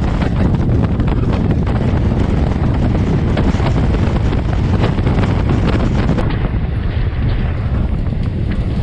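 Passenger train coach running at speed, heard from an open doorway. Wheels clatter over the rails under rushing wind on the microphone, and the highest hiss thins out about six seconds in.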